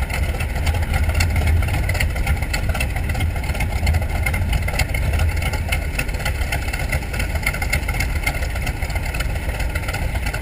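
TBM Avenger's Wright R-2600 fourteen-cylinder twin-row radial engine running steadily, a deep, even note with no change in speed.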